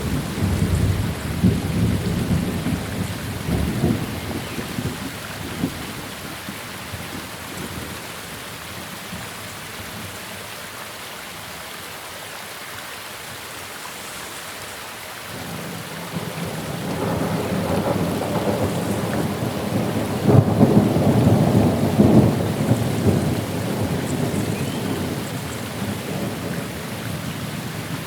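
Steady rain with rolling thunder: a rumble dies away over the first few seconds, then a second, louder roll builds about halfway through and fades out near the end.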